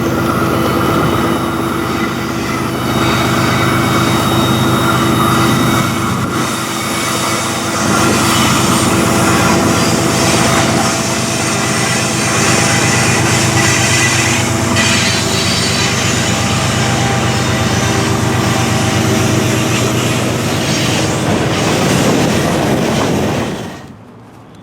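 BNSF freight train passing close by: a steady diesel hum over the rolling of wheels on rail, with the hum fading about halfway through while the rolling noise goes on. It cuts off suddenly near the end.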